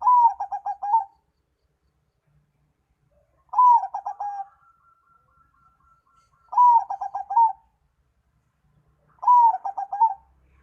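Bird lure recording playing a bird call. Each phrase is about a second long: a bent, falling note followed by a quick run of four or five short notes. The phrase comes four times, about every three seconds.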